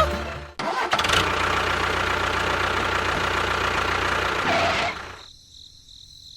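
A small engine or motor running steadily, which stops about five seconds in. Faint insect-like chirping is left after it.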